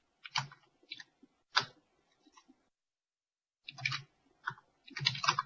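Computer mouse clicking: a few single clicks, then a quicker run of clicks near the end.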